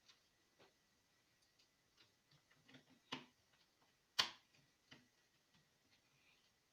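Faint scattered clicks and taps, with two sharper clicks about three and four seconds in.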